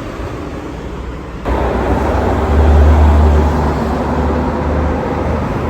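Road traffic noise: a large vehicle passes close by on the road, and a loud, deep rumble sets in suddenly about a second and a half in and stays loud.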